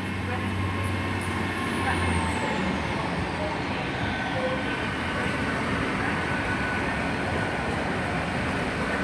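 Great Western Railway Class 802 train pulling out under diesel power: a steady rumble of engines and wheels, with a high whine that falls in pitch a couple of seconds in.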